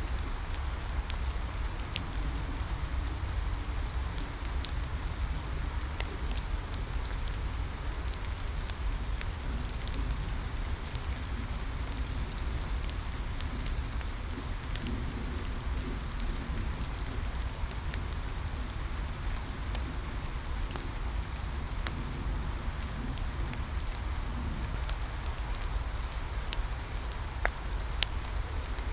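Steady rain falling, mixed with the irregular snaps and pops of a crackling wood fire. A low, steady rumble runs underneath.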